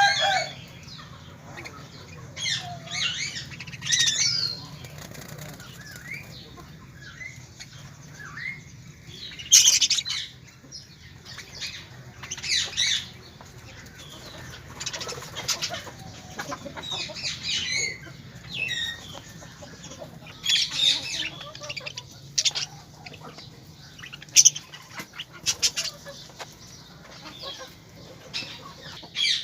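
Birds flapping their wings and giving short, high chirping calls in scattered bursts, over a steady low hum.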